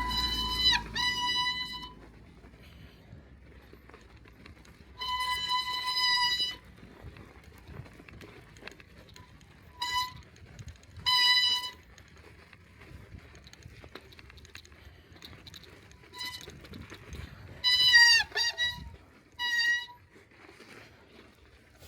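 Bicycle brakes squealing in a series of short, high-pitched squeals, several separate times, some wavering and dipping in pitch, over faint road noise.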